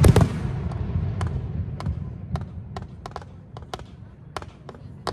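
Fireworks: a loud double bang right at the start, its low boom rolling away over a couple of seconds, then scattered sharp cracks of smaller bursts.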